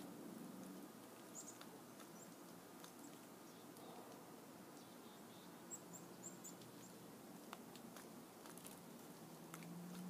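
Near silence, with scattered faint ticks and a few faint, very high bird chirps: a pair about one and a half seconds in and a quick run of four about six seconds in.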